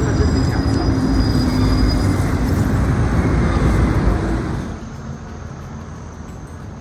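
Road traffic noise: a loud, steady low rumble of passing vehicles that falls away suddenly about two-thirds of the way through, leaving quieter street background.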